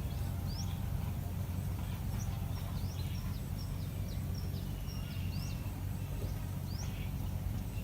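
Small birds chirping, a run of short, sharp high calls in quick series, over a steady low rumble.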